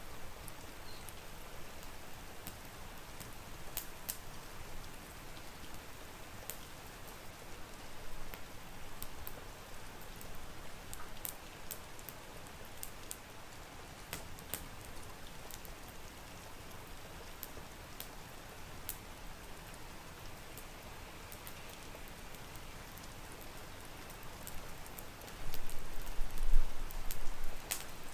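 Steady rain with scattered sharp crackles, as from a wood fire. A louder low rumble lasts about two seconds near the end.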